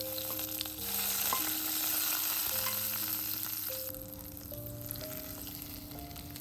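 Food sizzling in a hot frying pan, loudest for the first few seconds and then dying down to a softer sizzle.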